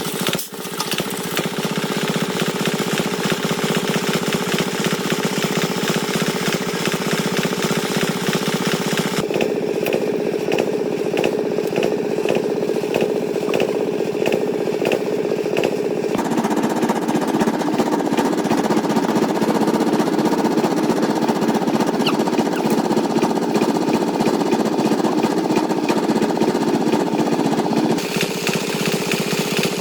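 Tractor engine running with a fast, hammering beat, its note changing a few times as it works.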